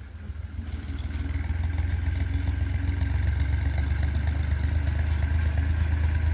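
Old diesel engine running, building up over the first two seconds or so, then holding a steady, deep, pulsing beat.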